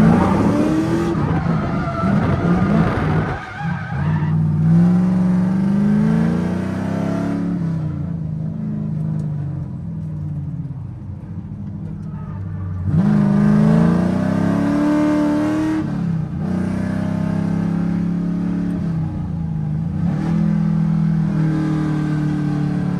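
Drift car engine revving hard, its pitch climbing and dropping repeatedly through the drift, with tyres squealing in the first few seconds. It eases off briefly near the middle, then revs up sharply again.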